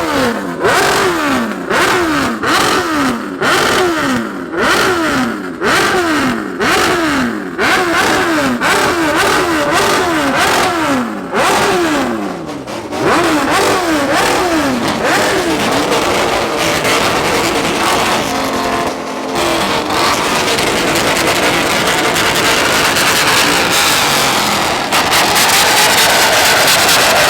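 A performance car engine revved in a run of quick blips, about one a second, each one spiking and then falling back. In the last third this gives way to a continuous, loud, noisy run that builds slightly toward the end.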